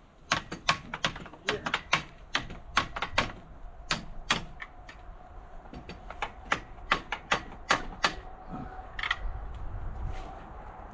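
Hammer tapping on steel, striking the small wedges that hold the tractor's cultivator: a quick, uneven run of sharp metallic knocks, about two to three a second, that thins out near the end.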